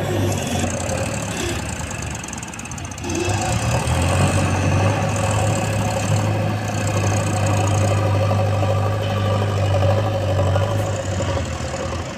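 Heavy diesel machinery engine running steadily. Its level dips about two seconds in and picks up again about three seconds in, as under working load.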